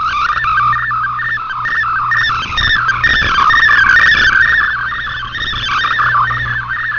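Shortwave digital-mode data signal heard through a radio receiver: a fast, warbling stream of tones hopping about within a narrow band, multi-tone frequency-shift keying carrying text or images, with a steady low hum underneath.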